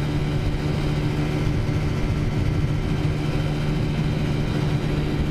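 Taotao 50cc scooter's small single-cylinder four-stroke engine humming steadily at cruising speed through its CVT drive, with wind and road noise under it.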